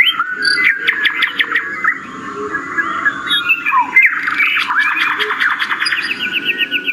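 Many small birds chirping and chattering together, a dense run of quick, overlapping high notes.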